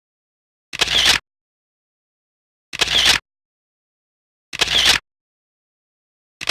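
Camera shutter sound effect: the same half-second burst of clicks repeated four times, about every two seconds, with dead silence between.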